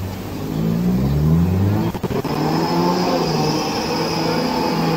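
Mercedes-Benz sedan's engine revving up and down while drifting on loose dirt, its pitch rising and falling. There is a brief break about two seconds in, after which a faint high steady tone runs alongside the engine.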